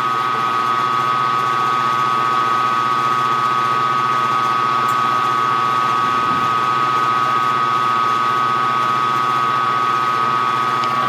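Milling machine spindle motor running steadily, with a constant high whine over its hum.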